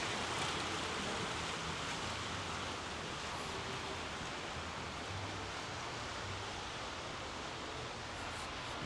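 Steady outdoor ambience: an even hiss with no distinct events.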